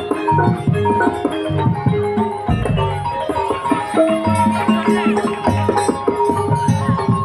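Javanese gamelan ensemble playing: struck metal keys ringing in repeated melodic notes over frequent hand-drum strokes.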